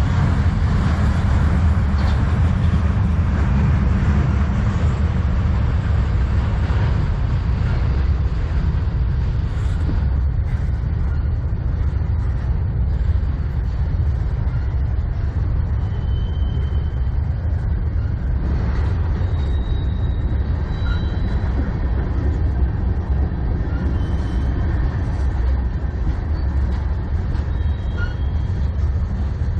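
Freight cars of a passing manifest train rolling by trackside: a steady low rumble of steel wheels on rail that holds at an even level.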